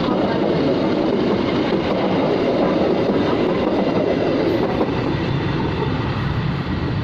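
Train passing over a railway level crossing: a steady, loud running noise of wheels on the rails that holds without a break.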